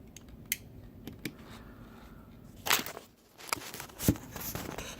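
Handling noises: a few light clicks and a brief rustle about two and a half seconds in, over a low background.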